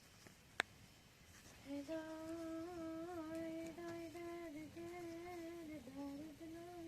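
A single sharp click, then from about two seconds in a person humming a slow tune, holding notes that waver gently in pitch.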